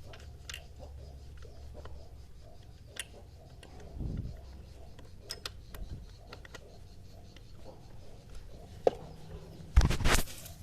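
Scattered light clicks and taps of parts and tools being handled during an LC135 engine overhaul, over a low hum. There is a dull thump about four seconds in and a loud brief clatter near the end.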